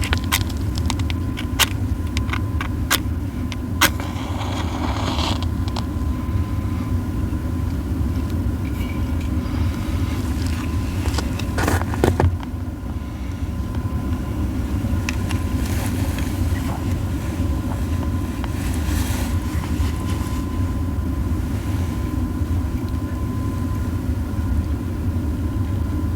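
Burning pine cones crackling and popping with sharp snaps over a steady low rumble. The pops come thickest in the first few seconds, with a louder cluster about twelve seconds in.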